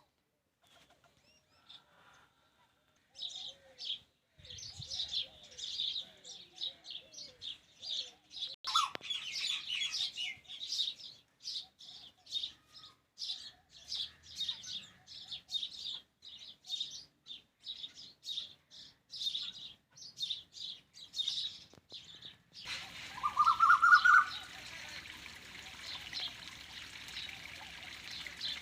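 A flock of small birds chirping together in a dense, rapid, high-pitched chatter. Near the end it cuts to the steady sound of running water, with one loud rising whistle.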